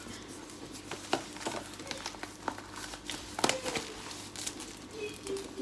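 Plastic baby bottles and their parts being handled and set down, giving scattered light clicks and knocks over soft rustling of packaging.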